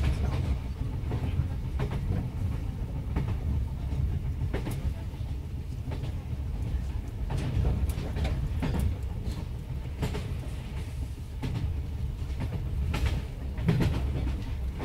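Inside a JNR Yokosuka Line electric train car, about 1978, running between stations: a steady low rumble from the running gear, with the wheels clicking over rail joints every so often.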